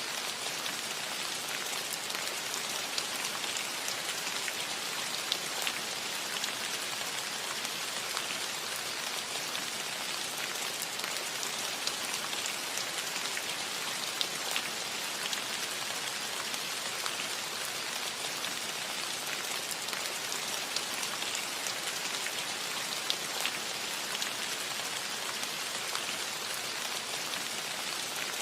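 Steady rain falling on a metal roof, an even patter with scattered sharper drop ticks.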